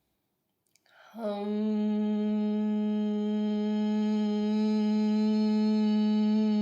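A woman humming one long steady note, the seed-mantra hum for the heart and throat chakras, starting about a second in after a soft breath.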